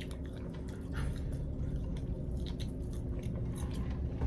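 Close-up mouth sounds of eating and drinking: small wet clicks and smacks over a low steady hum.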